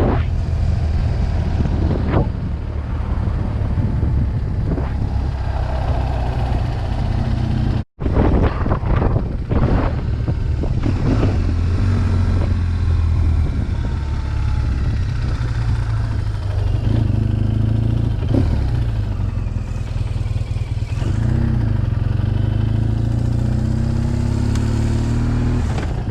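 BMW R1200GS boxer-twin engine running steadily while the motorcycle is ridden along, with wind noise over it. The sound cuts out for an instant about eight seconds in.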